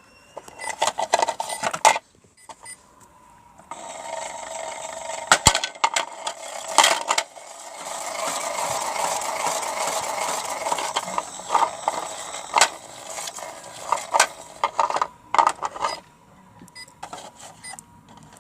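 Toy washing machine running with bricks rattling and knocking in its drum: a steady small-motor hum under many sharp clicks and clatters, dropping away briefly about two seconds in and again near the end.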